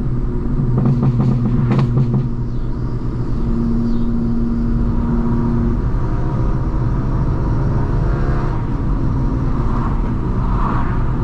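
Straight-piped BMW M4 Competition's twin-turbo inline-six exhaust running steadily at a low cruise, with a few sharp pops about one to two seconds in.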